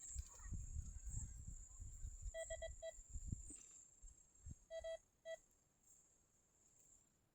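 Metal detector beeping in two quick runs of short, identical beeps about two seconds apart, signalling a metal target. A low rumbling noise sits under the first half.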